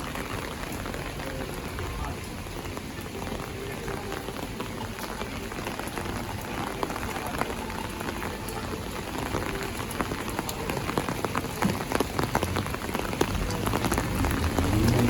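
Heavy rain falling, a steady hiss dense with the patter of individual drops. A low, rising pitched sound comes in near the end.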